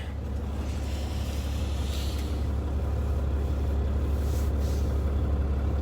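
Semi truck's diesel engine idling, heard from inside the cab as a steady low rumble.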